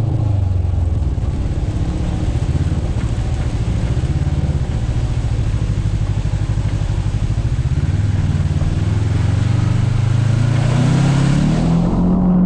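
Kawasaki side-by-side UTV engine running under way, its pitch dipping and then climbing steadily over the last few seconds as it accelerates, over a steady hiss that cuts off near the end.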